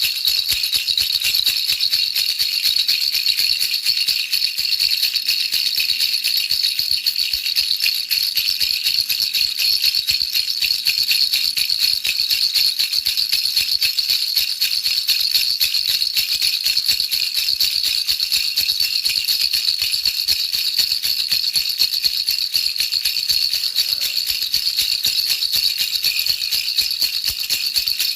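Baby rattle shaken without pause, a dense, even, high-pitched jingling of small pieces inside it, played as white noise to lull a baby to sleep.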